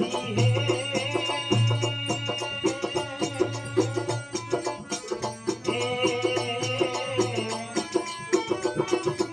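Rajasthani folk devotional bhajan music: held, slightly wavering melody notes over a steady, busy drum rhythm, with the held melody falling away in the middle and returning about six seconds in.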